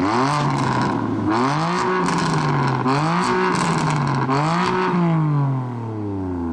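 BMW M3 F80's twin-turbo inline-six, through a decatted custom M Performance exhaust, revved hard: the pitch climbs and dips about four times, then drops away in one long fall near the end.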